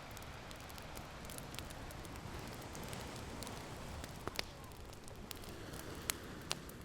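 Open fire crackling with scattered sharp pops, a few louder ones about four seconds in and twice near the end, over a steady wash of ocean waves.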